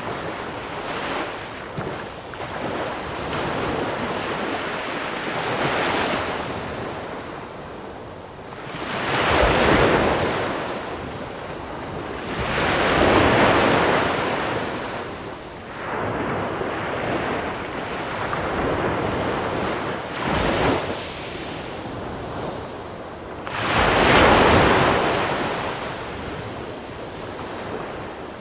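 Sea waves breaking on a small-pebble beach: three larger waves crash about a third of the way in, near the middle and near the end, each followed by the hiss of water washing back over the pebbles, with smaller washes between. Some wind noise on the microphone.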